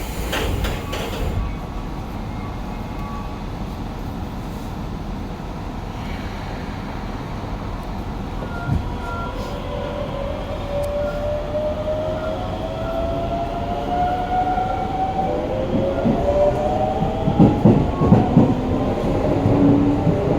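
Hokuso 7300-series electric train's GTO-VVVF traction inverter whining in several tones that climb steadily in pitch as the train accelerates, over the running rumble of the car. Sharp clacks of wheels over rail joints come near the end.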